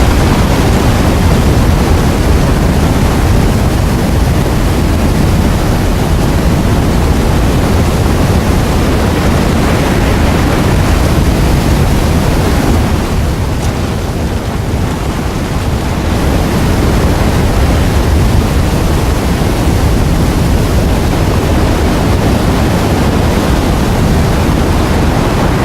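Loud, steady rushing noise with no tone, heaviest in the low end, running on without a break and cutting off abruptly at the very end.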